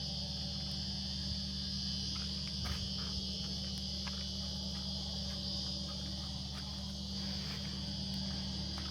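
Outdoor insect chorus: a steady, unbroken high-pitched chirring, with a steady low hum underneath and a few faint clicks.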